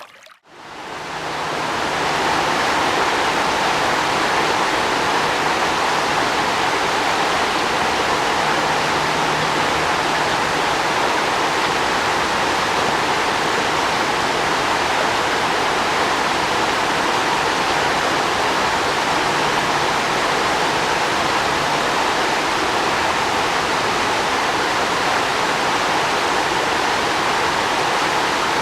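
Steady rush of flowing water, fading in over the first couple of seconds and then holding even throughout.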